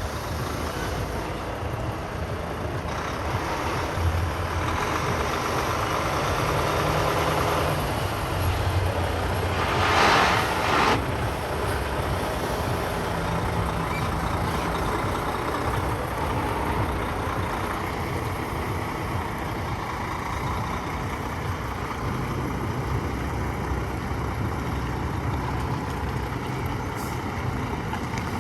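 Semi truck's diesel engine running steadily, with a short loud hiss of released air about ten seconds in.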